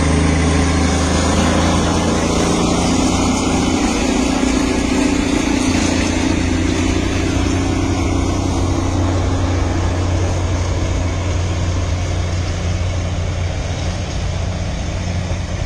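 A vehicle's engine running steadily with a constant low hum under a wash of travel noise, easing off slightly near the end.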